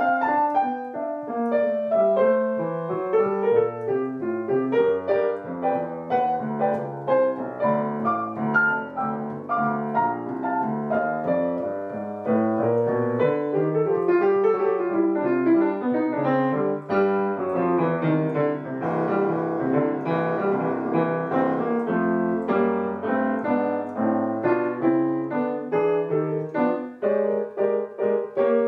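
Solo piano music playing a steady stream of notes.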